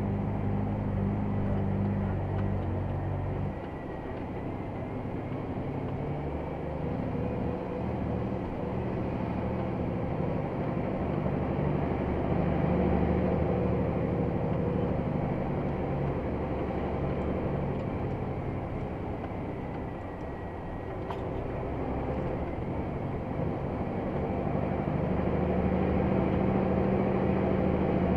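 Scania XT G500 truck's 13-litre straight-six diesel running while driving under a heavy load of about 50 tonnes of rubble. The engine note drops about three and a half seconds in, comes back up midway, dips again near twenty seconds and rises toward the end.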